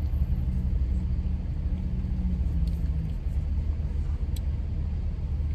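Steady low rumble of a car's engine idling, heard from inside the cabin, with a faint click about four seconds in.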